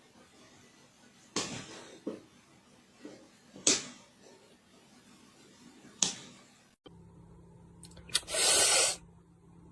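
A series of sharp bangs on something hard, four over about five seconds, each with a short ringing tail. After a sudden cut, a short hissing burst comes near the end over a steady low hum.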